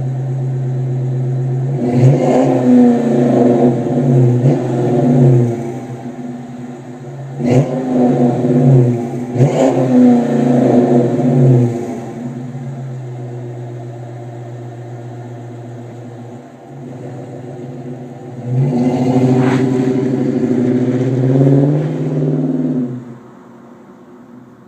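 Chrysler 5.7 L HEMI V8 through a Flowmaster 40 muffler with the resonator deleted. It idles, is blipped up and down in two quick sets of revs, settles back to idle, then is held at higher revs for about four seconds before the sound drops away near the end.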